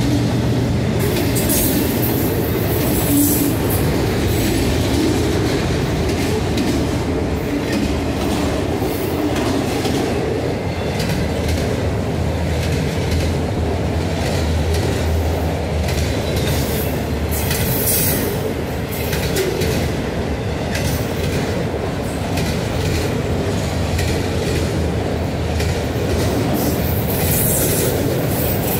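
Autorack freight cars of a CSX train rolling past at close range: a steady rumble and clatter of steel wheels on rail, with a few brief high-pitched squeals about a second in, midway and near the end.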